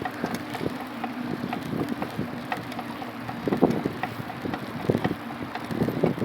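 Wind buffeting the microphone during a ride, with scattered clicks and rattles and louder gusts about three and a half and five seconds in.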